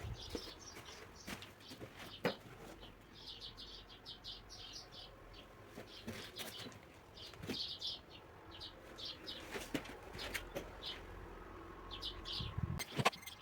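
Small birds chirping in repeated short runs of quick high chirps, with a few sharp clicks or taps, one loud near the end.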